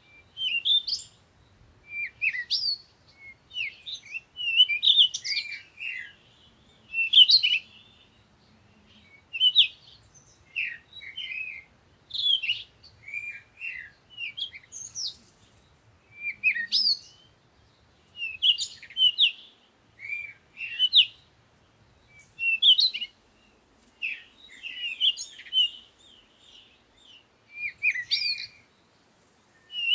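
Songbirds chirping: short, quick phrases of high chirps and whistles, about one every second, against a quiet background.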